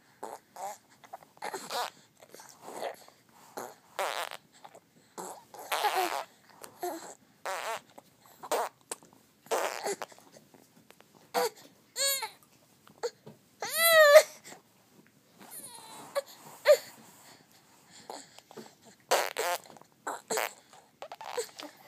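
A young child making silly vocal noises: a run of short breathy, noisy bursts, with two high squeals that rise and fall in pitch near the middle.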